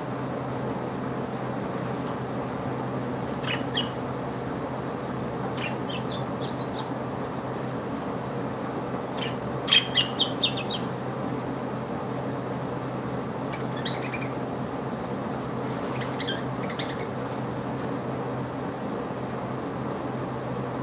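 Pet birds chirping in short, scattered calls, with the loudest run of four quick chirps about ten seconds in, over a steady background hum.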